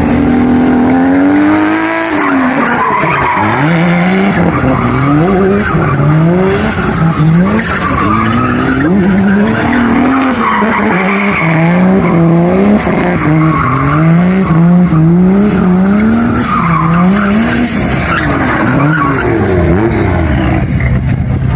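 Mazda RX-8 with a swapped-in Toyota 1JZ inline-six being driven hard: the engine revs up and falls back over and over, about once a second, while the tyres skid and squeal.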